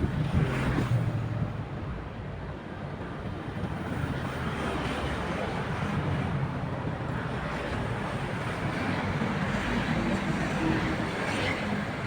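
Tugboat diesel engine running with a steady low drone, mixed with wind and water noise.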